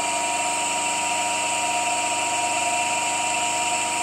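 Three-phase induction motor running steadily on 380 volts, wired with a single capacitor in what the owner calls resonance. It gives a constant hum and whine made of several steady tones.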